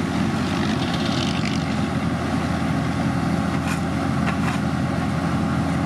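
Heavy road-paving machinery's engine running steadily, with a couple of light clicks about four seconds in.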